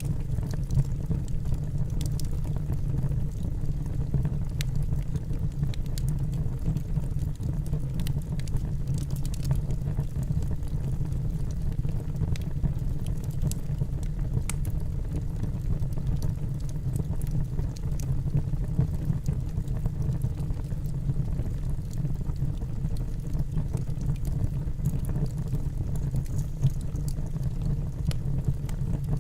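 Wood fire burning in a fireplace: a steady low rumble of the flames with scattered small crackles and pops from the burning logs.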